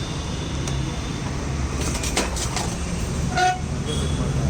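Street traffic rumbling steadily, with a few clicks about two seconds in and one short vehicle horn toot near the end.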